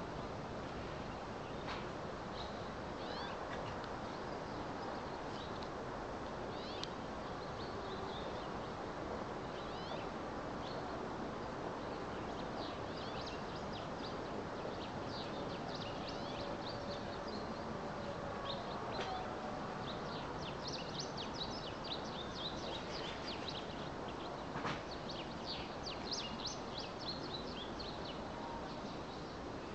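Small birds chirping: many short, high notes in quick runs, thickest in the second half, over a steady background noise.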